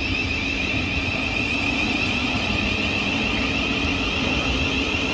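Electric passenger train running through the station: a steady rumble with a high, even tone over it.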